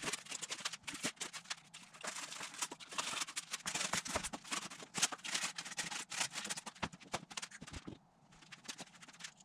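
Rotten, decades-old wood being torn and broken out of a truck camper's frame: a rapid, irregular crackling and snapping of crumbling wood that dies away near the end.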